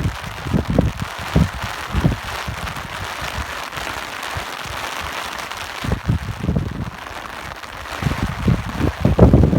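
Steady rain hissing, with irregular gusts of wind buffeting the microphone as low rumbles; the gusts ease off in the middle and are strongest near the end.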